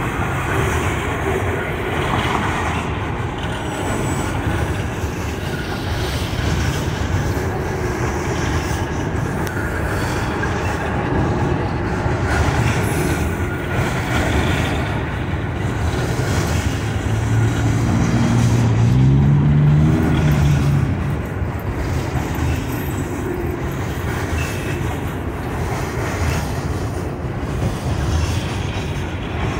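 Train rolling past, a steady rumble of wheels and rail cars on the track. About seventeen seconds in, an engine note rises in pitch for a few seconds and is the loudest part.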